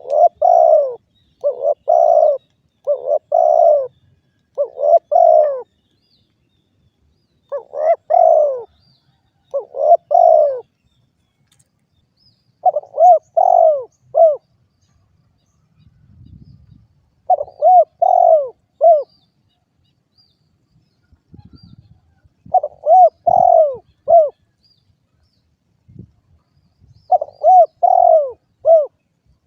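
Spotted dove (derkuku) cooing: short phrases of two or three low, arched coos, repeated about once a second for the first few seconds, then in groups every four or five seconds.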